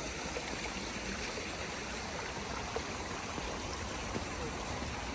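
Steady rush of stream water cascading over rocks.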